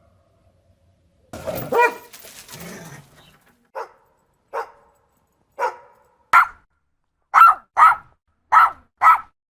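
A dog barking: a longer, rougher call about a second and a half in, then a run of about eight short single barks that grow louder and come closer together near the end.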